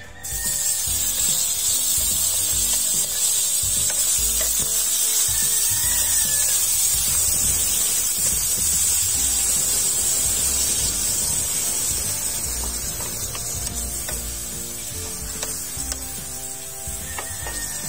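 Sliced tomatoes dropped into hot oil in a frying pan, sizzling loudly as they are stirred with a wooden spatula. The sizzle starts suddenly as the tomatoes go in and eases a little in the second half.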